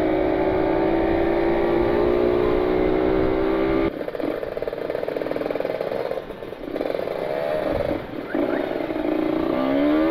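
Kawasaki Ninja 150 RR's single-cylinder two-stroke engine pulling in gear, its pitch climbing slowly as it accelerates. About four seconds in the throttle shuts off sharply, and near the end it revs up quickly again.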